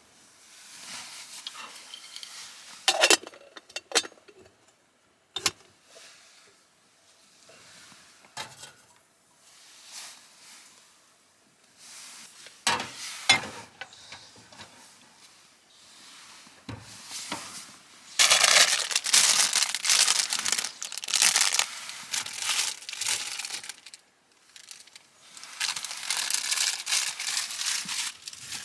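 Crinkling and rustling of something being handled, in long stretches, with a few sharp clicks and knocks.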